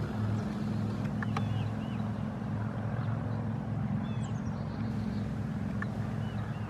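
Power wheelchair's electric drive motors humming steadily as it rolls, with a few faint bird chirps above.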